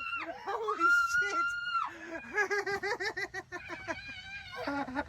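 A person screaming in fright at a bee, one long high shriek, then breaking into quick, breathless laughter from about two seconds in.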